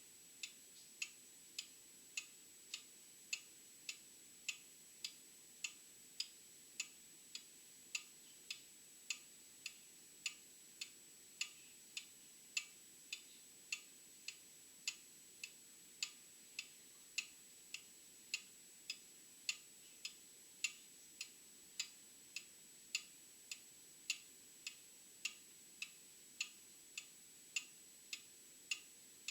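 Old mechanical clock ticking steadily, a little under two sharp ticks a second, with a faint steady high-pitched whine underneath.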